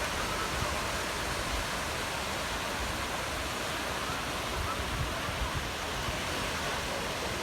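Steady rushing of sea surf breaking on a beach.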